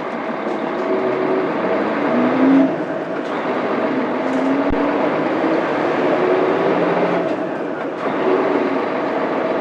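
Mitsubishi Fuso Aerostar bus's 6M70 12.9-litre inline-six diesel heard from inside the cabin, accelerating through its 5-speed manual gearbox. The engine note rises, falls with a gear change a few seconds in, then rises again before another shift near the end.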